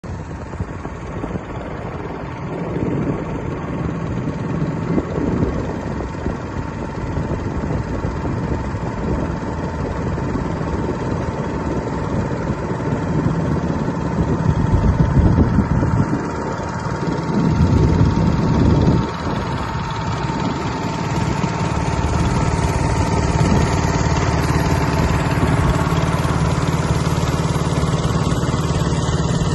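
Motorboat engine running steadily, a constant low drone with a held hum, with a couple of louder rumbling surges about halfway through.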